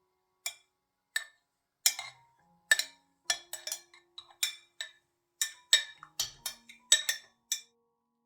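A series of about fifteen sharp taps at an uneven pace, some coming in quick pairs.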